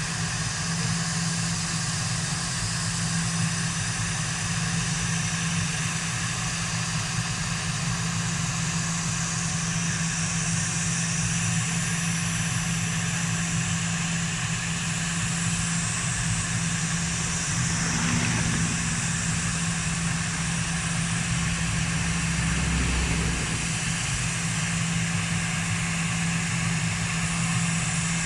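Aircraft engines running steadily, a constant low hum under an even rush of noise, with no clear rise or fall.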